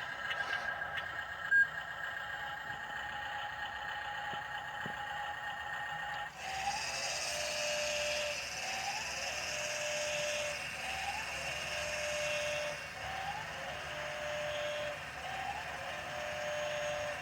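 A repeating electronic tone: from about six seconds in, a short rising chirp followed by a held tone, about every two seconds, after a steadier tone at the start.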